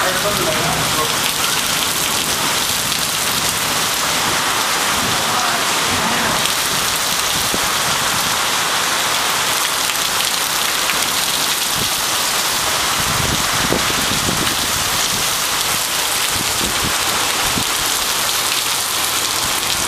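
Heavy rain pouring down steadily over roofs, trees and street in a tropical rainstorm, a dense unbroken hiss of rain on hard surfaces.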